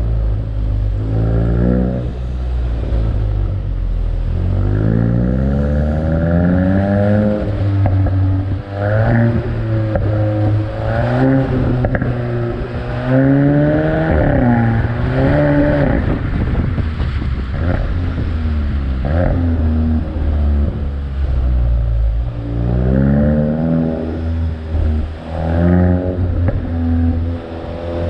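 VW Golf 8 GTI's 2.0-litre turbocharged four-cylinder engine accelerating through the gears, its pitch climbing and then dropping back at each upshift, over a steady low road rumble. This happens several times over.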